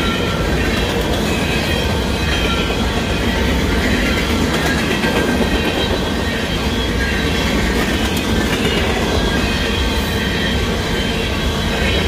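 Covered hopper cars of a freight train rolling past a grade crossing at speed: a steady, loud rumble of steel wheels on the rails, unchanging throughout.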